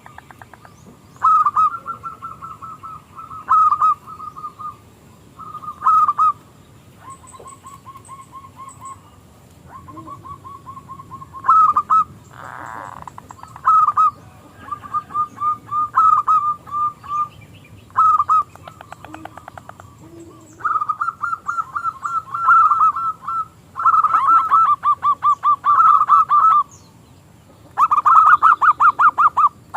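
Zebra dove (perkutut) cooing: a string of phrases of rapid, pulsed coos, each lasting a second or two with short pauses between, repeated over and over.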